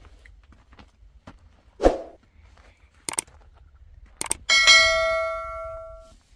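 A dull thump and a couple of sharp clicks, then a metal object struck once and left ringing with a clear, bell-like tone that dies away over about a second and a half.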